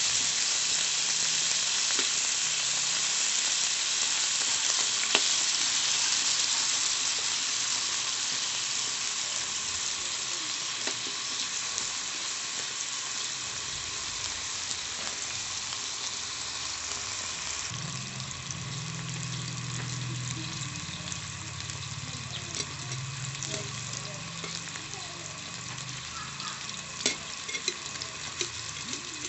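Cubed potatoes and carrots sizzling as they fry in oil in a metal pan, the sizzle easing off gradually. A metal spatula clicks and scrapes against the pan a few times near the end.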